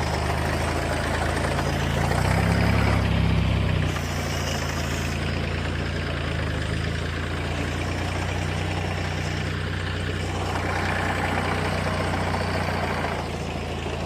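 Old Massey Ferguson tractor engine running at a steady idle, a little louder for a couple of seconds about two seconds in. It is running again after years of sitting.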